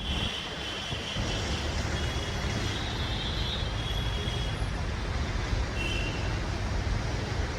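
Birds in a tree chirping, short high calls repeating every second or so, over a steady low rumble of city traffic.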